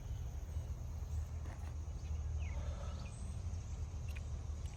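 Outdoor background sound: a steady low rumble, with a faint chirp about two and a half seconds in.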